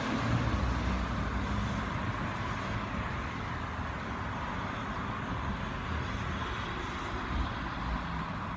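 Steady rumble of a freight train passing and moving away, slowly fading.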